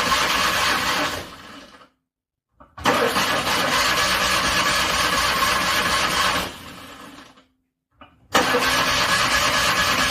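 Car engine cranking on its starter without catching, in three separate attempts: the first winds down about a second in, the second runs about three and a half seconds before winding down, and the third starts near the end. A cold engine struggling to start.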